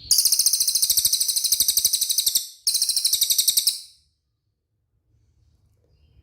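A cililin bird's rapid, high-pitched trill, loud and evenly pulsed, in two bursts: about two and a half seconds, a brief break, then about another second before it stops abruptly.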